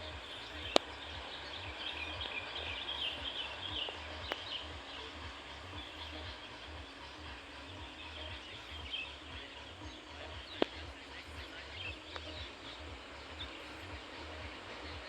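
Forest ambience: birds chirping over a steady low rumble, with two sharp clicks, one just under a second in and one past ten seconds.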